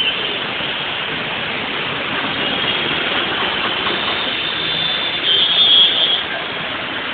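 Steady noise of road traffic moving through flooded streets, vehicle engines running, with a high-pitched horn-like tone sounding for about a second near the end.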